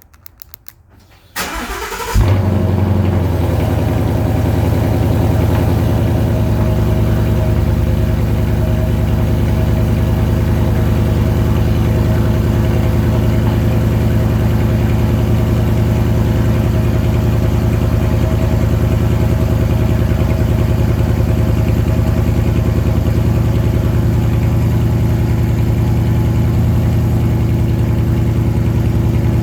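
Ford Mustang GT's 5.0-litre V8 cold-starting through a Ford Performance by Borla Touring exhaust. It cranks briefly about a second and a half in, catches with a loud flare, then settles into a steady idle.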